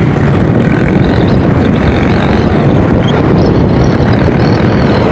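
Hartford VR150 150 cc dirt bike engine running through a modified exhaust, giving a loud, steady drone.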